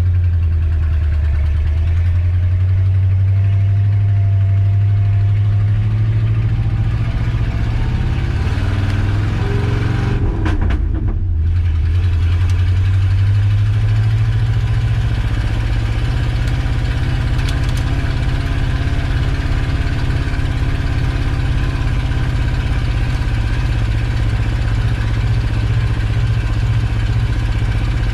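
Old Ford F350 pickup's engine running steadily while towing a loaded trailer, a constant low drone. About ten seconds in it dips briefly, then climbs back up and carries on.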